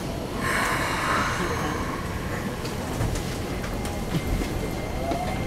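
Keikyu New 1000 series train running, heard from inside the car: a steady rumble with a few sharp clicks and a faint whine from its Toyo IGBT-VVVF inverter that rises in pitch near the end. A short burst of hiss comes about half a second in.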